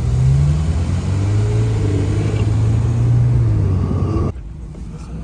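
Car engine running with a low exhaust rumble, its pitch dipping slightly early on and then holding steady; it cuts off abruptly about four seconds in, leaving a quieter background.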